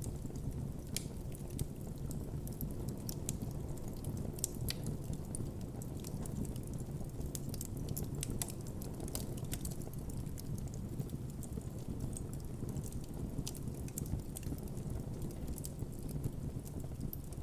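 Campfire burning with a steady low rumble of flames and frequent irregular crackles and pops of burning wood.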